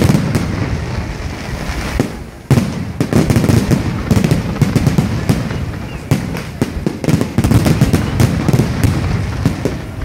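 Fireworks display: a dense run of shell bursts overhead, sharp bangs and crackling one after another. There is a brief lull about two seconds in, then the bursts resume just as thickly.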